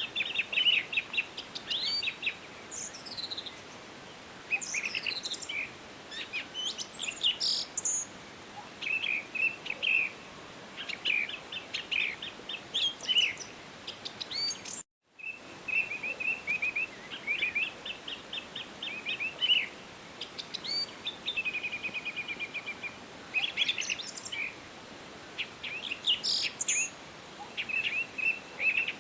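Several songbirds singing and chirping in a forest chorus, with quick trills and repeated note series over a faint steady background hiss. The sound cuts out completely for a split second about halfway through.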